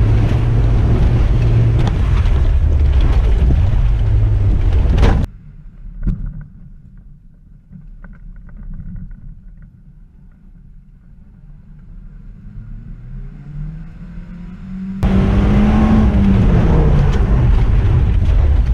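Kia Sportage's engine running under load with road noise, heard loud inside the cabin as it is driven fast on a dirt track. About five seconds in it drops abruptly to a much fainter, muffled engine sound whose pitch slowly rises. The loud in-cabin engine noise cuts back in about fifteen seconds in, its pitch falling.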